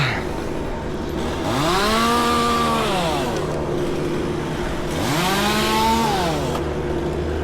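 Gas chainsaw revved up twice, each time climbing in pitch, holding about a second at full throttle and dropping back to idle, with the saw idling in between.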